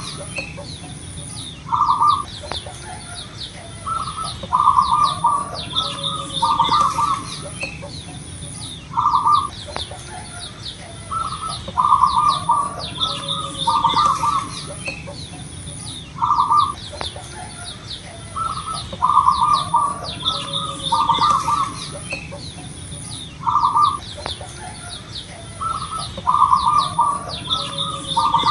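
Zebra doves (perkutut) cooing: short phrases of quick, clipped coo notes repeated every two seconds or so. Behind them are chirps of small birds and a high buzz pulsing about once a second.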